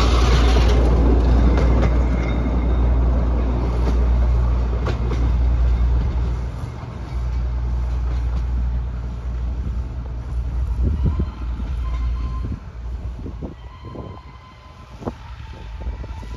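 Narrow-gauge passenger carriages running past the level crossing and fading as the train draws away. Wheels click over the rail joints in the second half.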